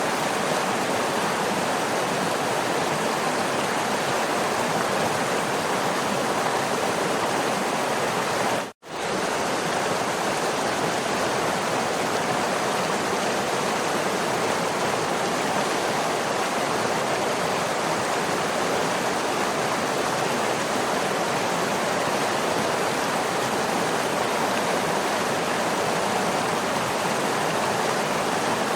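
Waterfall, a steady even rush of falling water that drops out completely for a split second about nine seconds in.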